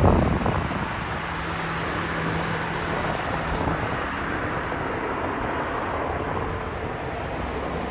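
Steady rumble of distant motor vehicles, with a low hum holding for a few seconds near the start.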